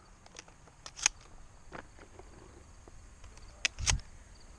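A few sharp clicks and knocks: a loud one about a second in, and two close together near the end, the last one with a heavier thud.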